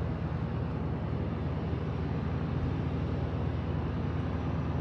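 Ford F-250 pickup driving, heard from inside the cab: a steady low drone of engine and road noise that stays even throughout.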